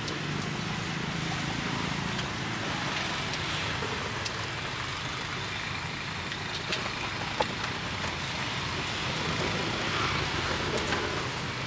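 Street traffic noise: a steady hum of passing vehicles, with a few light clicks and knocks, one sharper click about seven seconds in.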